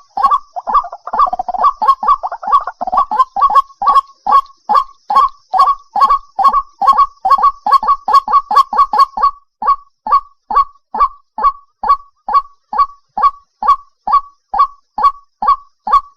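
White-breasted waterhen calling: a monotonous run of short, clipped notes, about two a second. In the first half a second, overlapping voice fills the gaps with extra lower notes, then the series settles into a single steady rhythm.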